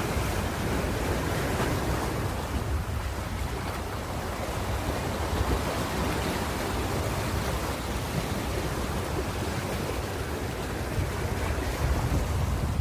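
Ocean waves breaking and washing on a shore: a continuous rumbling surf that rises and falls gently, with some low wind buffeting on the microphone.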